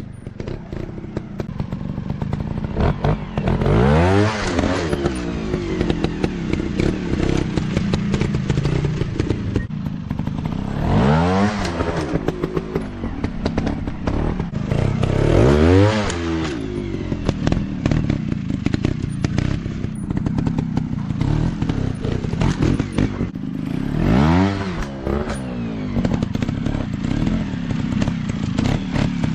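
Dirt bike engine running at low revs, opened up sharply four times. Each time the pitch climbs quickly and then drops back to the lower running note.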